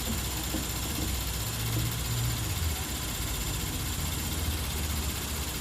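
Car engine idling steadily, a low rumble.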